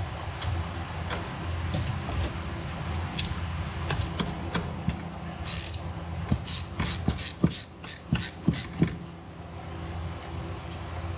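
Hand ratchet clicking as a seat screw is turned out, with scattered small clicks and knocks, then a steady run of about three ratchet clicks a second in the middle of the stretch, over a steady low hum.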